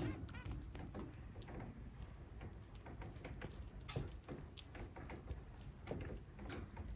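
Irregular light taps and clicks, a few every second, from society finches moving about their cage.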